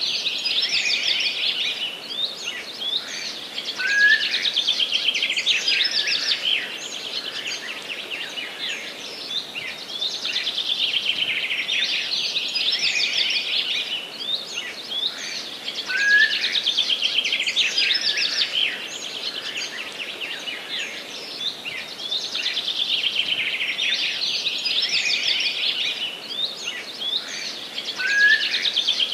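A dense chorus of many small songbirds singing and chirping continuously, rapid high trills and twitters overlapping. The same stretch of song repeats about every twelve seconds.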